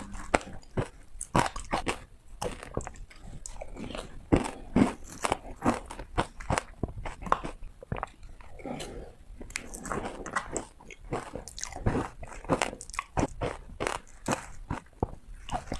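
A person biting into hard ice, which breaks with crisp crunching cracks. The bites come in quick, irregular succession.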